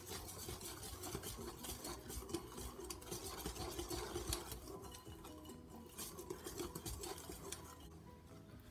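Wire whisk stirring flour into a thick batter in a glass bowl: a soft, quick scraping with many light clicks of the wires against the glass.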